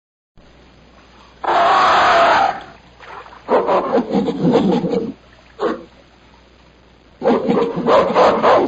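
Monkey calls: a harsh screech, then bursts of rapid chattering cries.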